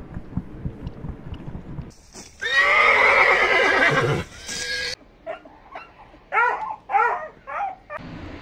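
A horse whinnies loudly for nearly two seconds, its pitch falling as the call trails off. Near the end come three short calls, each rising and falling in pitch.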